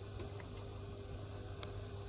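Steady low hum and faint hiss of room tone, with a few light ticks about a quarter of a second in, just after, and near the end.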